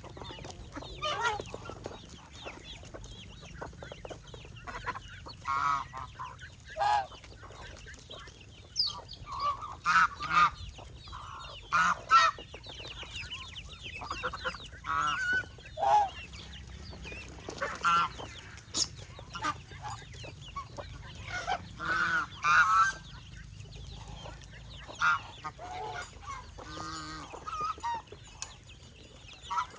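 Domestic geese honking among other poultry calls from a mixed farmyard flock: many short, irregular calls throughout.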